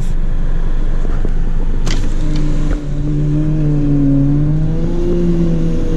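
A car engine held at high revs, its pitch holding and wavering slowly, from about two seconds in. This is most likely the Chevy Sonic doing stunts in the lot. Under it runs a steady low rumble.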